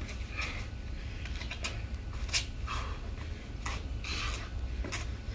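A person doing burpees: short, breathy exhalations every second or so and a few sharp knocks from the movement, over a steady wind rumble on the microphone.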